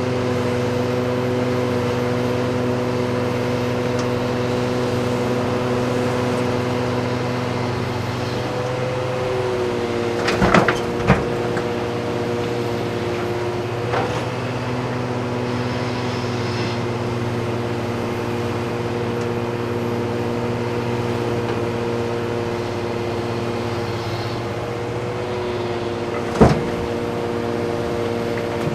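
Heavy diesel earthmoving machinery running steadily, its engine note shifting slightly about nine seconds in. Sharp bangs come twice around ten to eleven seconds in, again a few seconds later, and once more loudly near the end, as the excavator loads a haul truck.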